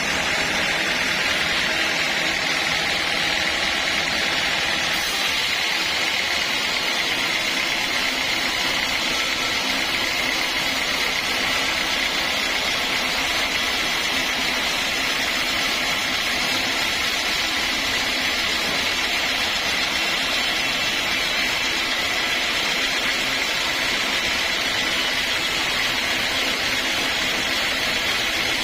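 Sawmill machinery running steadily, a constant loud hissing whine with no break.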